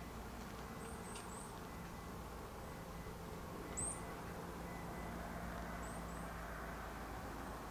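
Small birds giving short, very high chirps in little groups: three about a second in, a louder one near four seconds, two near six seconds. Under them runs a steady background hiss with a faint low hum.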